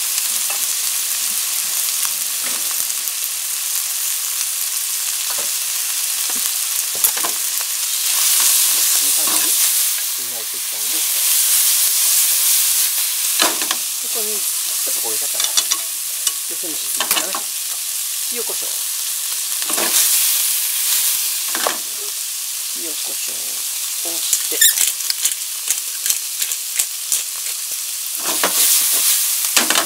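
Sliced pork, cabbage and carrot sizzling in a stone-coated nonstick wok while being stirred with chopsticks, which scrape and tap against the pan now and then. The sizzle swells louder several times.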